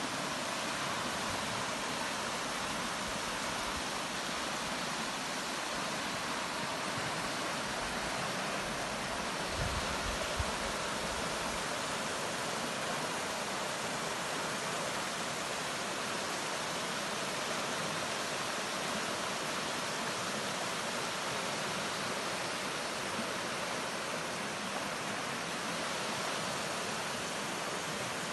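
Flash-flood water rushing steadily down a wadi after heavy rain, a continuous even rush of water. A couple of brief low thumps about ten seconds in.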